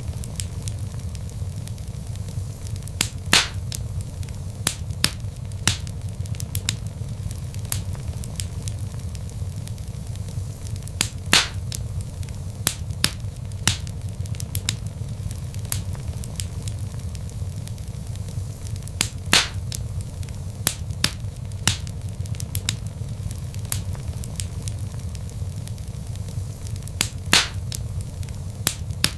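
Wood logs burning in a fireplace: a steady low rumble of flame under frequent small crackles. Four louder pops stand out, evenly about eight seconds apart.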